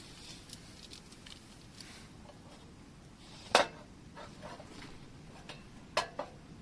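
A few sharp knocks against a faint steady hiss: one loud knock about three and a half seconds in and two quicker ones near the end, with lighter ticks between.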